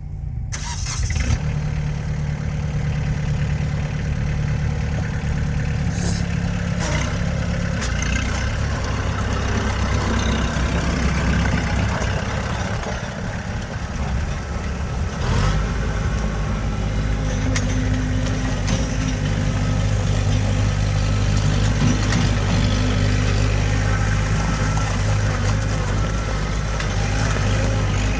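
2013 Kubota B3300SU compact tractor's three-cylinder diesel engine running, its note shifting in the first half, then settling into a steady idle about halfway through.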